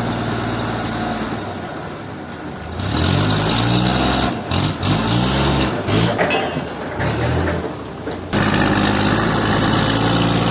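An engine running, its pitch rising and falling several times, then changing abruptly about eight seconds in to a steady low drone.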